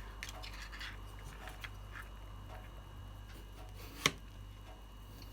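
Kitchen knife slicing thin cuts into a raw potato, faint scraping cuts and small clicks as the blade stops against a wooden spoon, with one sharper click about four seconds in.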